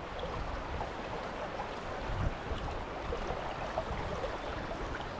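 Fast river current rushing steadily.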